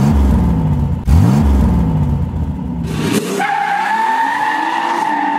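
Car engine revving up twice, then a steady high-pitched squeal from about three seconds in while the engine note slowly climbs.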